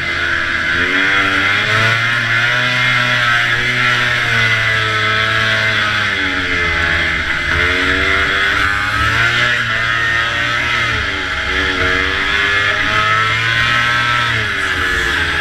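Antique two-stroke snowmobile engine racing, its pitch rising and falling every couple of seconds as the throttle comes on and off, over a loud steady hiss.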